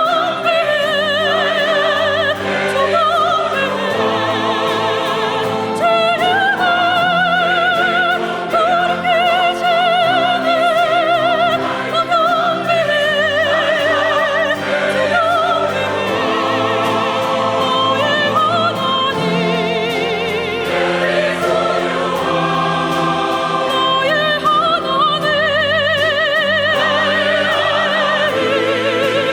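Church choir singing long, held notes with strong vibrato over a chamber orchestra of strings, winds, horn and organ.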